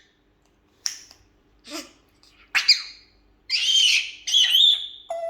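African grey parrot vocalizing: a few short, sharp clicks and squawks, then two longer, louder whistled calls that waver in pitch in the last second and a half.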